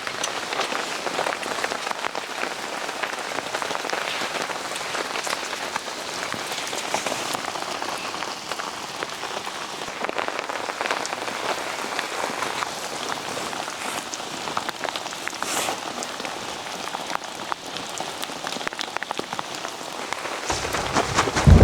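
Steady rain falling on forest foliage, a dense patter of individual drops over an even hiss. Near the end a deep rumble of thunder begins.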